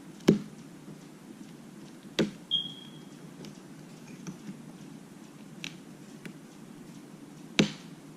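Sharp clicks and taps of plastic pry tools and guitar picks working under the edge of an iPad mini's cracked glass digitizer as its adhesive is pried up: three loud clicks, a few fainter ones, and one brief high squeak about two and a half seconds in.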